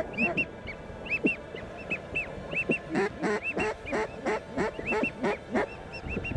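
Duck calls blown to a passing flock: a high-pitched whistle call in short, often paired peeps, joined from about three seconds in by a quack call in a quick run of quacks.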